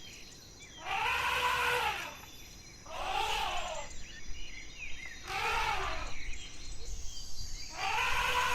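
An animal calling four times, each call about a second long, with a drawn-out groaning tone that rises and then falls in pitch, over steady background noise.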